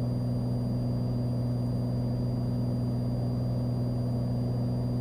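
Cessna 182 single-engine piston airplane in a climb, its engine and propeller giving a steady, even low drone.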